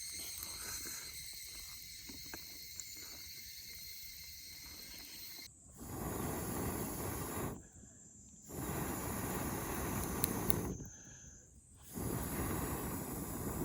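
Insects singing steadily and high-pitched. About five and a half seconds in, this gives way to a loud rushing hiss that comes in long stretches, broken twice by short dips.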